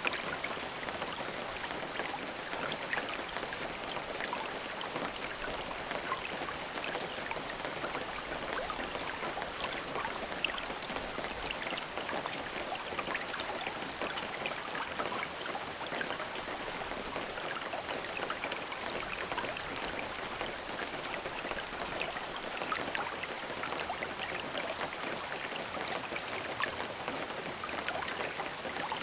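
Steady rain falling, a continuous hiss dotted with many small drop impacts on a surface, without thunder.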